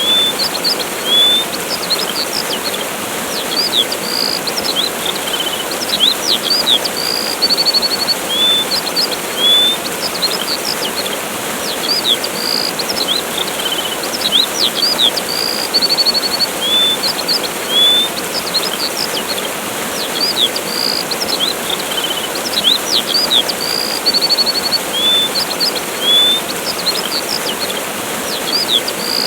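Steady rushing of a waterfall with small birds chirping and trilling over it. The same run of high, quick chirps repeats about every 14 seconds, as in a looped recording.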